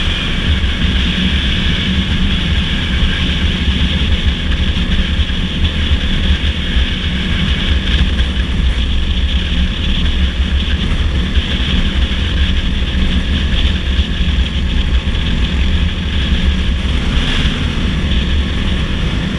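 Dirt bike engine running steadily at cruising speed, with wind noise on the microphone.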